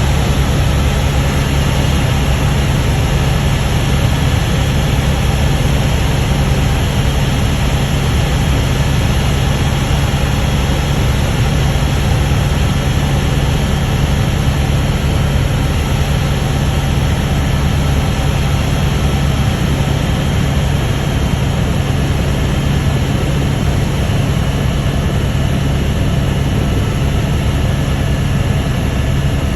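Helicopter in flight: a steady, loud drone of engine and rotor with a strong low hum, unchanging throughout.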